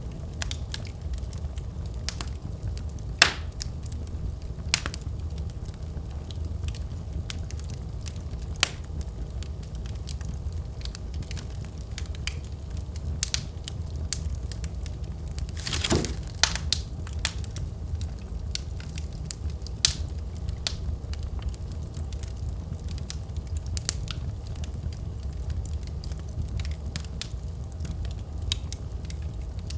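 Wood fire in a fireplace crackling and popping over a low, steady rumble of flames. One sharp pop stands out about three seconds in, and there is a thick burst of crackling about halfway through.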